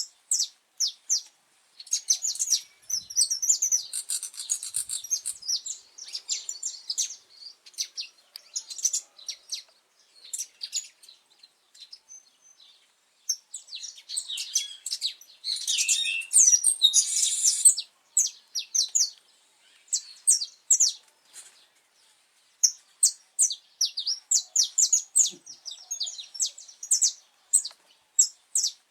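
Saffron finch singing: quick series of short, high chirps and trills in phrases broken by brief pauses, with a denser, louder run of song about halfway through.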